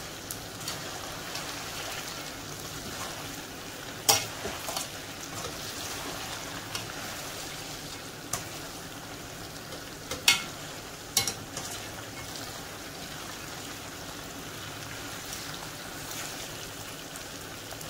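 Chicken pieces and green chillies sizzling as they deep-fry in oil in a metal karahi, being turned with a wire mesh skimmer. A few sharp clinks of the skimmer against the pan stand out, loudest about four and ten seconds in.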